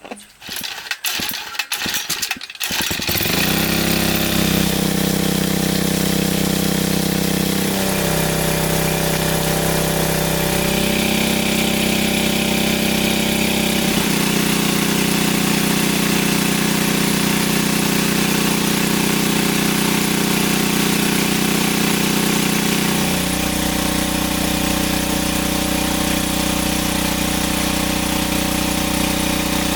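A small engine is started with a few uneven bursts and catches about three seconds in. It then runs steadily and loudly, its speed shifting a few times.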